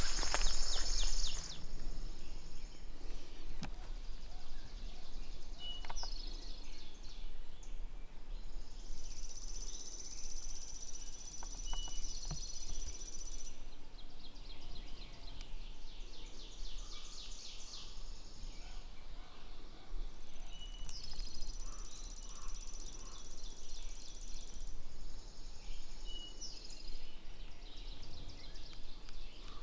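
Woodland ambience: high, thin trills, each lasting a few seconds, come back again and again, with short chirps between them.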